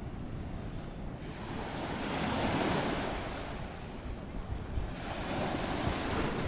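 Sea waves breaking and washing in, surging loudly about a second and a half in and again more softly about five seconds in, with wind buffeting the microphone.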